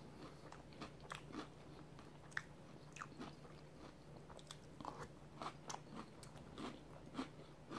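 A person chewing spoonfuls of Boo Berry cereal in milk: faint, scattered soft crunches and mouth clicks.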